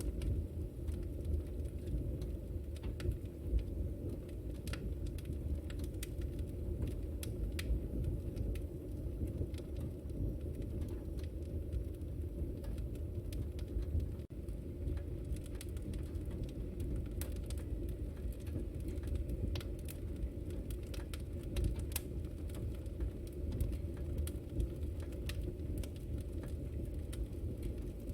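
Wood fire burning in a fireplace: a steady low rumble of flames with many small, sharp crackles and pops.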